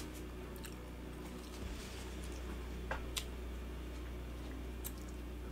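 Faint sounds of people chewing food, with a few small clicks, over a steady low hum.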